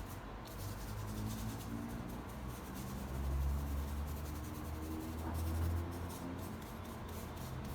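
Paintbrush strokes on canvas: soft, scratchy brushing that comes and goes, over a faint low hum.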